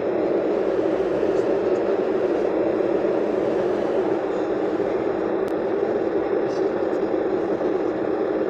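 Steady cabin noise of an airliner in flight: the even hum of the jet engines and rushing air heard from inside the passenger cabin.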